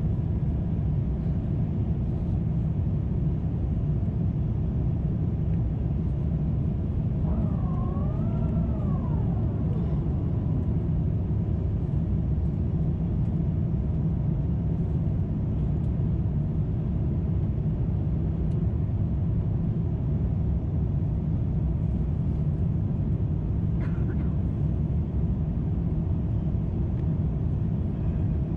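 Steady low rumble of an Airbus A350-900 cruising, engine and airflow noise heard inside the cabin. About eight seconds in, a brief wavering tone with a few overtones rises and falls for about two seconds.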